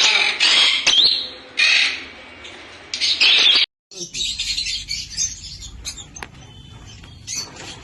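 Lovebirds chirping in loud, shrill bursts. The sound cuts off suddenly about three and a half seconds in, and softer, scattered chirps follow.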